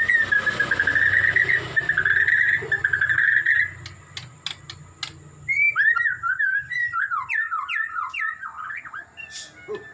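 Murai songbird singing: a fast warbling trill for the first few seconds, a few sharp clicks, then a run of varied whistled notes sweeping up and down.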